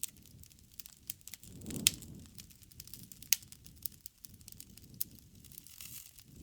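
Wood fire crackling, with many small sharp pops over a low rumble of burning; the loudest pops come a little under two seconds in and again past three seconds.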